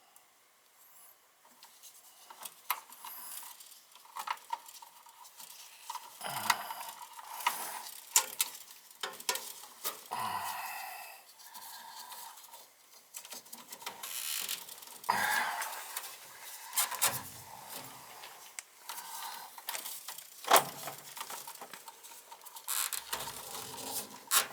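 Irregular clicks, clinks and short scrapes of hand tools and small metal parts being handled during work on a gas furnace.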